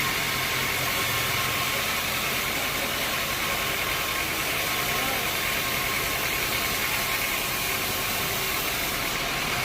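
Sawmill machinery running steadily: an even engine-like hum and hiss with faint steady high tones, with no cutting strokes or impacts.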